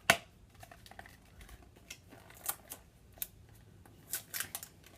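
Irregular clicks and taps as a small toy pipe is handled and its bottom part worked open, the loudest click right at the start and a quick cluster near the end.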